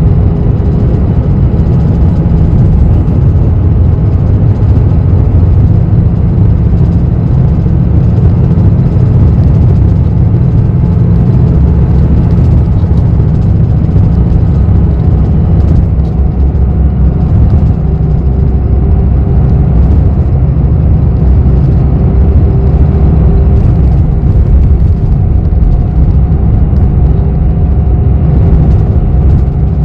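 City bus running at speed, heard from inside the passenger cabin: a steady low engine and road rumble with a faint whine above it.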